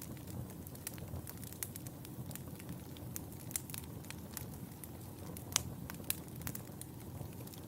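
Fireplace fire crackling: a steady low rumble of flames under irregular sharp pops and crackles, the loudest pop about five and a half seconds in.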